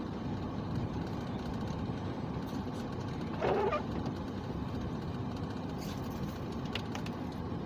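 Steady road and engine noise of a car being driven, heard from inside the cabin, with one brief higher-pitched sound about three and a half seconds in.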